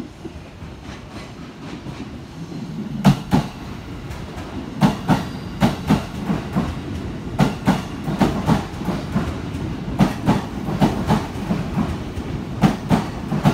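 15-car E231/E233-series electric commuter train pulling into a platform. A low rumble builds as it approaches, then from about three seconds in the wheels clatter over the rail joints in regular double clacks as the cars roll past.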